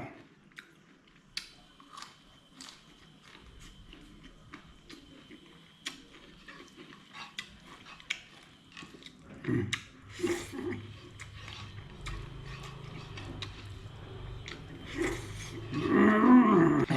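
Close-up chewing and eating: wet mouth clicks and soft smacks as food is chewed. Near the end comes a louder vocal sound, a brief hum or exclamation.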